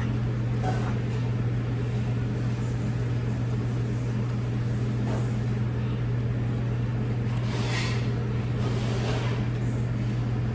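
A steady low hum throughout, with a few brief crunching or rustling noises from eating about eight and nine seconds in.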